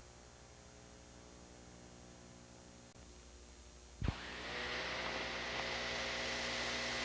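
Faint electrical mains hum and background noise. About four seconds in there is a click, and a louder steady hiss with a thin high whine sets in.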